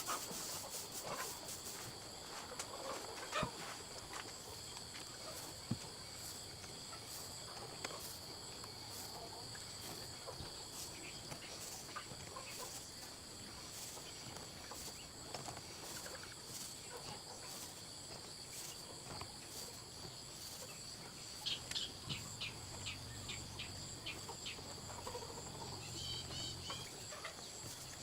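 Faint, steady high-pitched insect chorus with a pulsing texture, with a few scattered clicks and a couple of short runs of chirps near the end.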